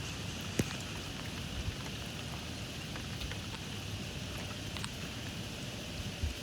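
Steady rain falling in a squall, with scattered drops tapping sharply on a surface, one louder tap about half a second in.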